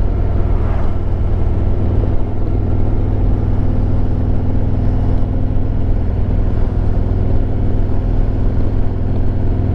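Harley-Davidson Road Glide Limited's Milwaukee-Eight 114 V-twin engine running at a steady pace while riding, with no change in revs.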